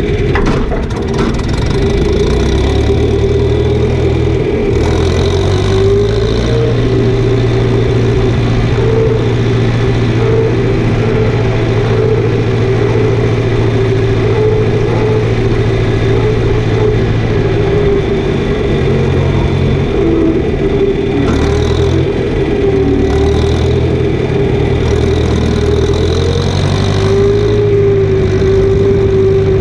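Engine of farm machinery running steadily while spreading chicken litter: a constant low hum with a wavering whine above it.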